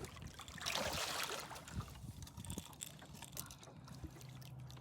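A brief splash or rush of water about a second in, beside a jon boat, followed by a faint steady low hum.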